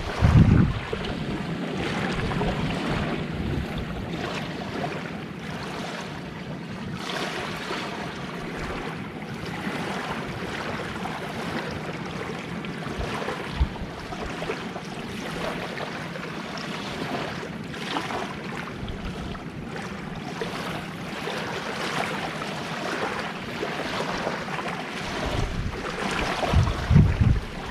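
Gentle sea waves washing on the shore in a steady hiss, with gusts of wind buffeting the microphone at the start and again near the end.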